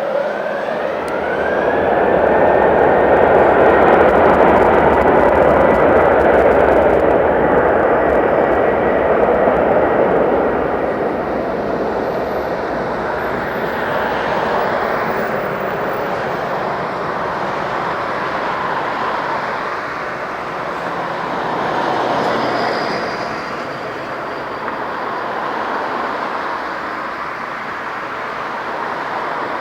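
Boeing 717's twin rear-mounted Rolls-Royce BR715 turbofan jet engines running hard. A whine rises about a second in and holds high while the engine noise swells, then the sound eases to a lower, steady level for the rest of the time.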